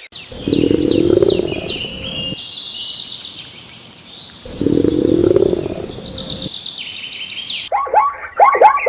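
Birds chirping with many quick high calls. Twice a lower, rougher animal call of about two seconds sounds under them. Near the end this gives way to a quick run of short repeated calls.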